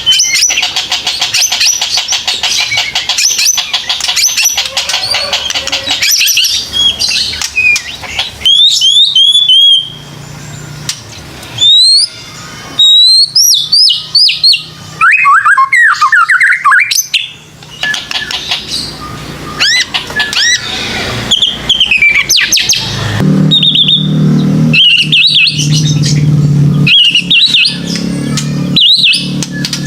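White-rumped shama (murai batu) singing loudly: varied whistled phrases of quick rising and falling notes and fast chattering trills, broken by short pauses. A steady low hum comes in about two-thirds of the way through.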